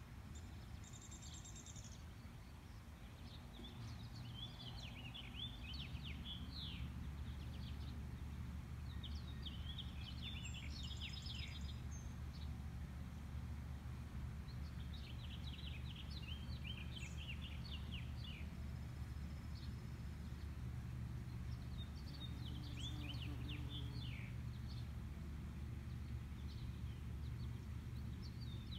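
Songbirds singing in short, chirpy phrases every few seconds, over a steady low hum that sets in a few seconds in.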